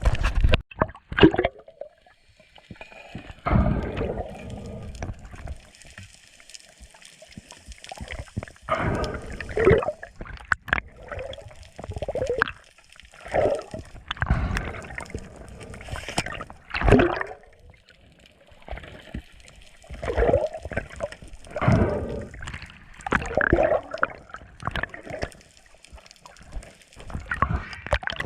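Seawater sloshing and gurgling around the camera, coming in irregular surges every second or two.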